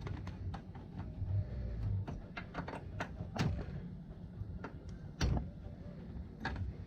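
Tools and parts being handled during work on an ATV wheel: a series of irregular clicks and knocks, the loudest about three and a half and five seconds in, over a low steady hum.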